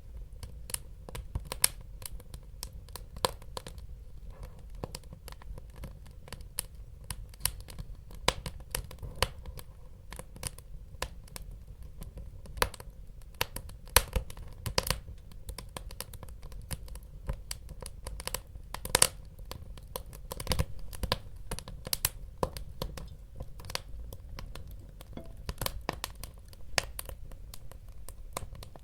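Wood fire burning in a fireplace, crackling with irregular sharp pops over a steady low rumble of the flames; the loudest pops come about halfway through and about two-thirds of the way in.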